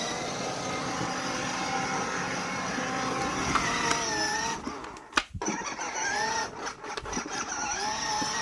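Ride-on toy motorcycle playing its electronic engine sound, a steady running noise with a wavering, rising and falling pitch. It drops out briefly about five seconds in with a few clicks, then starts again.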